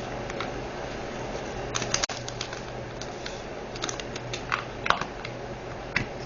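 Scattered small plastic clicks and taps of resin diamond-painting drills and their plastic containers being handled, with a cluster about two seconds in and more past the middle, over a steady low hum.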